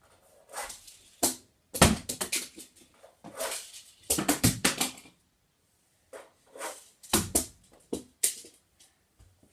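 Toy Hot Wheels monster trucks tumbling down stairs: clusters of sharp knocks and clattering rattles as they hit and bounce off the steps, three or four runs of them.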